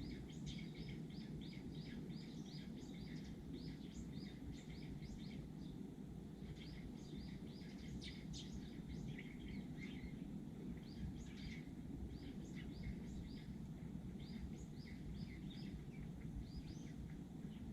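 A flock of Eurasian tree sparrows chirping continuously, many short chirps overlapping several times a second, over a steady low background rumble.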